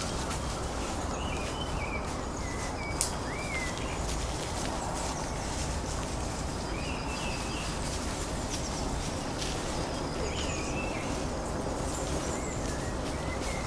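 Birds calling in woodland: short wavering and rising calls every few seconds over a steady background hiss, with a single sharp click about three seconds in.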